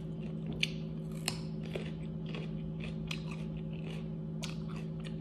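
Close-up chewing and biting into chicken wings: wet, crunchy mouth sounds with many small crackles, a couple of louder bites in the first second and a half. A steady low hum runs underneath.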